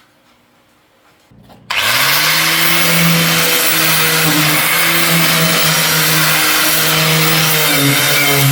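Electric power tool starting up about a second in, its motor quickly rising in pitch, then working on rusty metal with a loud, steady abrasive hiss over the motor hum.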